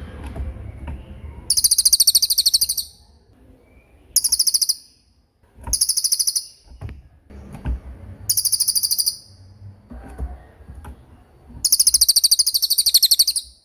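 A small songbird giving rapid, high-pitched trills of fast repeated notes, in five separate bursts of about one to two seconds each; the last and longest comes near the end.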